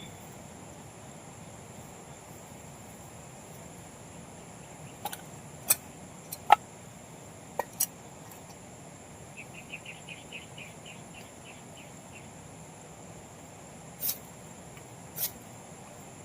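Steady high-pitched drone of insects such as crickets, broken by about ten sharp clicks or knocks, grouped in the middle and near the end. A short rapid trill of about a dozen quick pulses comes just past the middle.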